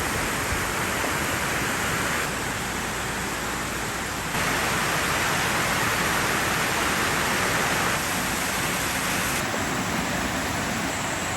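Heavy rain pouring down in a steady hiss, its level jumping up or down abruptly a few times.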